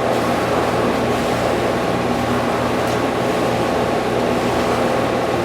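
Steady hum and airy rush of running ventilation machinery, such as a fan or air-conditioning unit, holding an even level with a constant low drone underneath.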